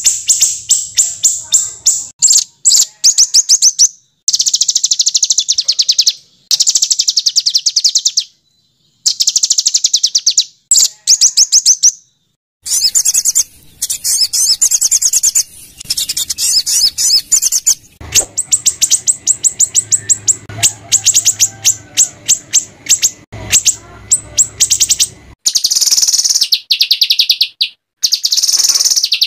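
Small songbirds' harsh, rapid-fire trilling calls: high-pitched bursts of fast repeated notes, each burst lasting one to a few seconds and cut off abruptly, with short silent gaps between them, as in an edited bird-song training track.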